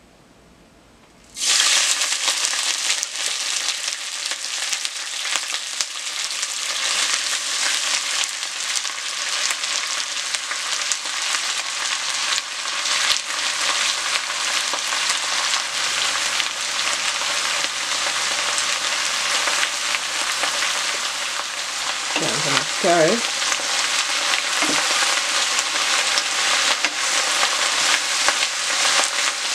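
Shredded cabbage frying in hot oil in a stainless steel pot: a loud sizzle starts suddenly about a second and a half in as the cabbage goes into the oil, then runs on steadily while it is stirred.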